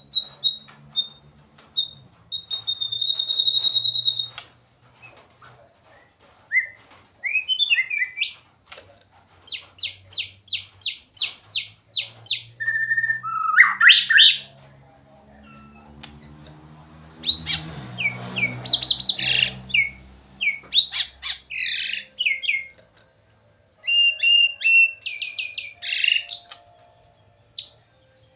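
White-rumped shama singing: a varied run of clear whistles, upward and downward glides and quick series of repeated notes, phrase after phrase with short pauses between them.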